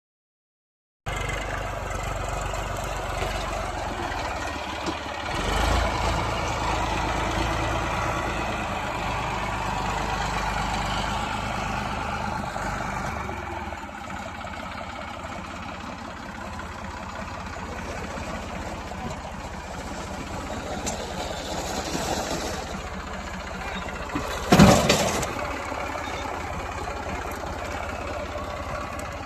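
New Holland 3230 tractor's diesel engine running steadily, starting about a second in, with a brief surge in loudness around five seconds in. A sharp, loud thump stands out near the end.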